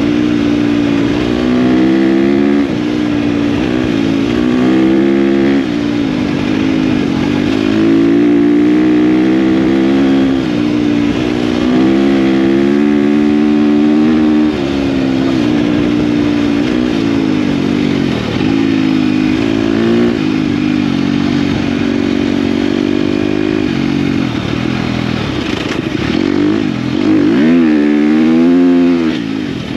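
KTM dirt bike engine running under way, its revs rising and falling over and over with throttle and gear changes. Near the end it drops off briefly, then climbs sharply again.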